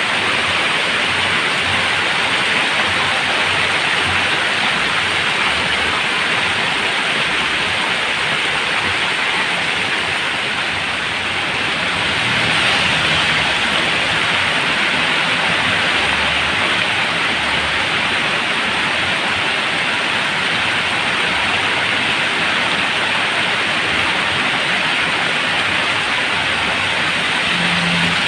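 Heavy rain falling steadily at night, a dense even hiss of rain pouring on surfaces.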